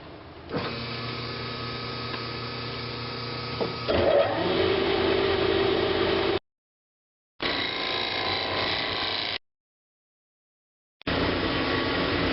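Woodworking lathe running with a steady motor hum while a turning tool cuts the spinning wooden bowl blank, the cutting noise growing louder about four seconds in. The sound comes in three short stretches with dead silence between them.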